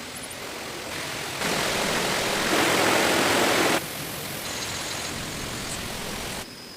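Heavy rain falling as a steady hiss. Its loudness jumps abruptly several times, loudest for about two seconds starting a second and a half in, then drops suddenly near the end.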